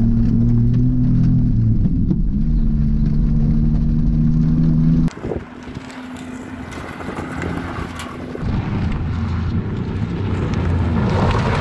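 Modified Pontiac Bonneville's engine running hard on a gravel road, heard from inside the cabin, its note shifting a couple of times in the first few seconds. About five seconds in, the sound switches to the car heard from outside: a quieter engine note with wind, growing louder as the car approaches over the gravel.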